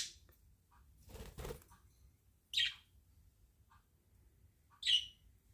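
Pet budgerigars chirping: two sharp chirps about two seconds apart, with softer peeps between them and a short rustle about a second in.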